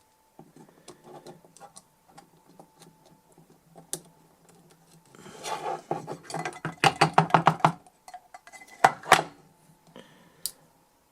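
Metal clinking and rattling from the DI box's small metal housing being worked on: scattered light clicks, then a louder quick rattle of about ten strokes a second around the middle. Two sharp knocks come near the end.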